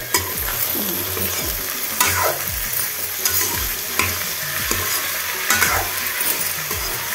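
Diced raw potatoes with onion and green chillies sizzling in hot oil in a metal kadhai, while a metal ladle stirs them, scraping and clinking against the pan at irregular moments. The potatoes are being fried (bhuna) in the oil.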